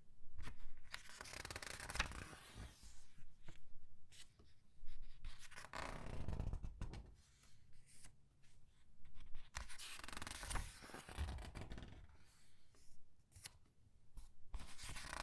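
Comic book pages being turned one at a time and squeezed: crinkling, rustling paper with small crisp clicks, a fresh page turn every four to five seconds.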